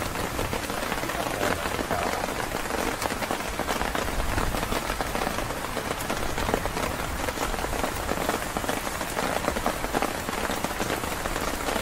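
Heavy rain pattering steadily on the tent fabric, mixed with wagyu beef slices sizzling in a nonstick frying pan on a portable gas stove.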